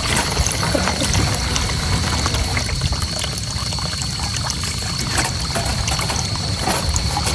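Water pouring and trickling, with many scattered drips and splashes over a low rumble.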